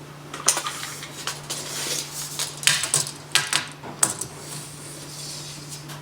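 Clinks and clatters of small hard objects being handled and set down, several sharp knocks in an uneven series, over a steady low hum.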